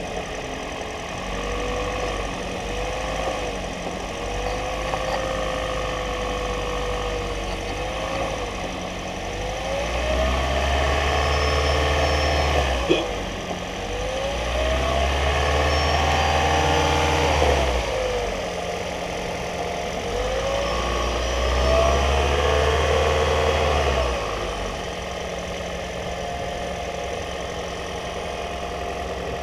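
2015 Toyota Prius 1.8L four-cylinder engine running, revved up three times for a few seconds each between steadier running. A whine glides up and down in pitch along with it.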